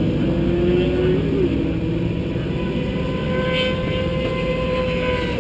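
Engine of a vehicle at track speed, heard onboard over wind and road noise: the engine note climbs for about a second, dips briefly, then holds a steady higher note that eases off near the end.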